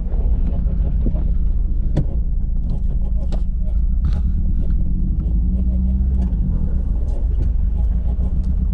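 Mazdaspeed3's turbocharged 2.3-litre four-cylinder engine running under steady load, a low steady rumble, with a misfire on cylinder 4.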